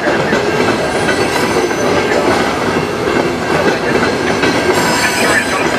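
Freight train of covered hopper cars rolling past at close range: a steady, loud rumble and clatter of steel wheels on the rails.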